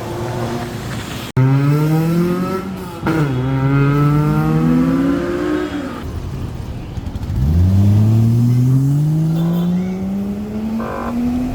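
Car engine accelerating hard: its pitch climbs, drops sharply about three seconds in at a gear change and climbs again, then after a short lull another acceleration pulls away from low revs and rises steadily to the end. The sound cuts off abruptly for an instant just over a second in.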